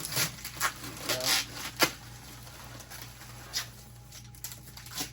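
Protective plastic film being peeled off a plastic fridge cabinet: a few quick rustles and crackles with a sharp snap just under two seconds in, then quieter with an occasional rustle.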